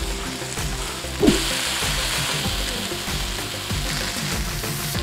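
Chicken breasts sizzling as they pan-fry in hot oil; a short knock about a second in, and the sizzle grows louder after it. Background music plays underneath.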